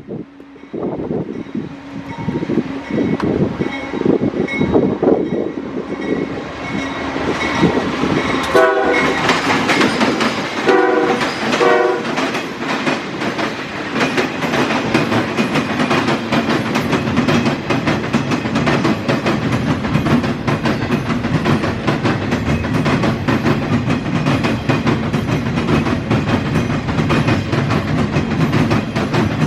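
GE AC4400CW diesel locomotive passing and sounding a few short horn blasts about nine to twelve seconds in, followed by the empty rail train's cars rolling by with steady wheel clatter over the rail joints.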